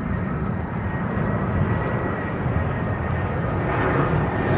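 Jet airliner engines running, a steady rumble that grows a little louder near the end.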